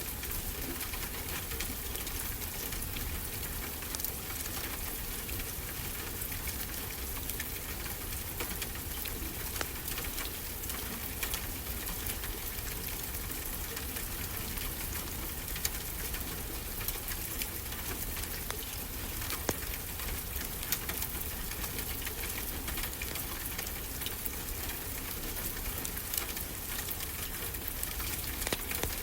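Wood fire crackling with scattered sharp pops over a steady hiss of ocean surf.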